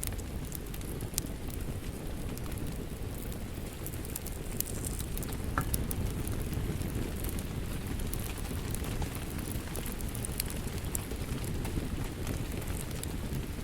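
Wood fire crackling and popping over a steady low rumble, with scattered sharp snaps and one louder pop at about the middle.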